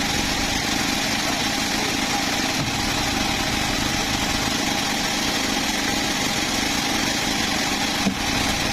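Engine of a homemade bandsaw mill running steadily, with one short knock near the end.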